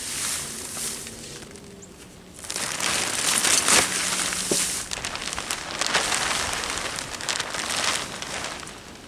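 Cold frame cover crinkling and rustling as it is pulled open, a dense crackly rustle from about two and a half seconds in until near the end.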